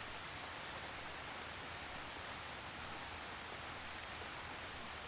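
Gentle steady rain: a soft, even hiss of drizzle with scattered light drop ticks.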